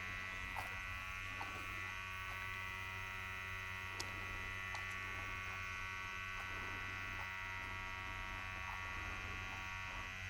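Steady electric buzz of a small motor running, with a few faint clicks.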